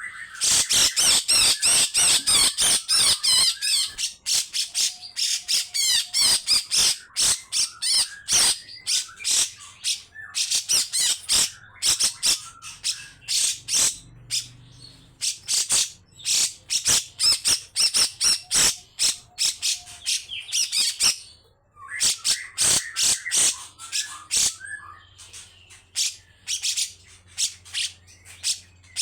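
Grey-cheeked bulbul (cucak jenggot) calling in long runs of harsh, rasping notes, several a second, broken by bursts of dense, high chattering song.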